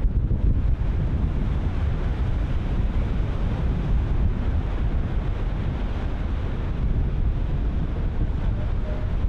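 Ocean surf washing and breaking continuously, with wind buffeting the microphone in a heavy low rumble.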